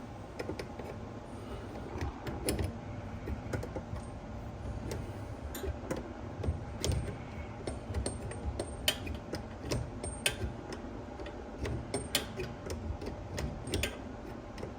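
Scattered, irregular light clicks and small knocks as plastic plumbing lines and fittings are handled and pushed into place.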